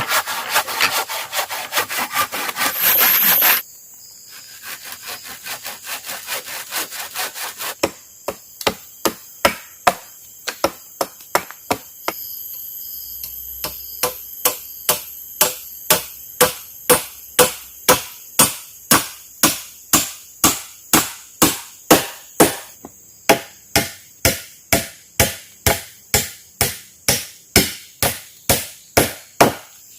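Wood being sawn by hand: a quick run of rapid strokes, then a steady rhythm of about two strokes a second. Insects keep up a steady high buzz underneath.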